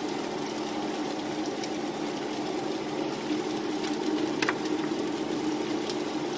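Diced beef, onions and peppers sizzling in a cast-iron skillet as minced garlic is added and stirred in with wooden spatulas, over a steady low hum, with a few light clicks of the spatulas.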